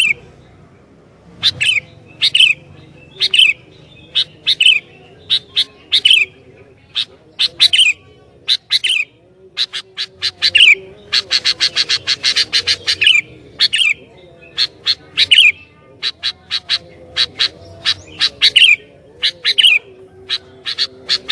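Sooty-headed bulbul (kutilang) calling in loud, short, sharp notes repeated every second or so, with a fast run of rapid chirps about halfway through. A faint wavering low tone runs underneath.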